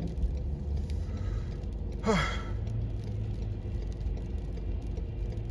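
Steady low rumble of a car heard from inside the cabin, with a person giving one short sigh that falls in pitch about two seconds in.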